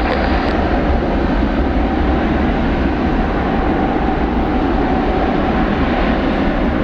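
Boeing 777-300ER's GE90 turbofans at takeoff power, a loud, steady jet roar.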